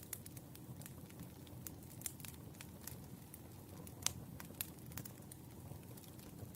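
Wood fire burning, crackling with irregular sharp pops over a low steady rumble; the loudest pop comes about four seconds in.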